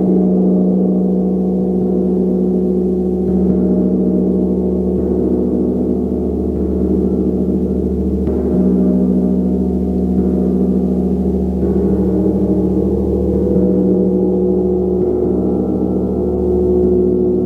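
Gong played continuously, a dense wash of deep sustained tones that never dies away, its upper tones shifting every couple of seconds as it is struck again.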